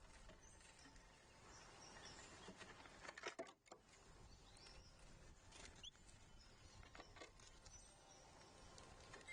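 Faint outdoor ambience, close to silence: a few light taps and scratches about three seconds in, and a few short, faint bird chirps.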